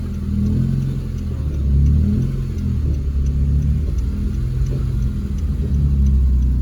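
2012 Honda Civic Si's four-cylinder engine running as the car is driven slowly, a low rumble whose pitch rises and falls with the throttle.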